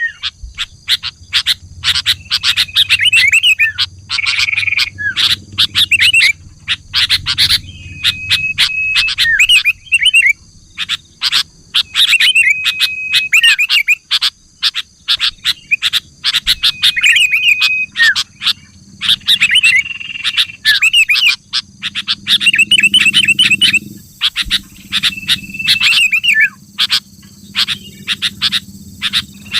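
Sooty-headed bulbul (kutilang) calling: short phrases of sharp chattering notes with a held whistle, repeated every couple of seconds.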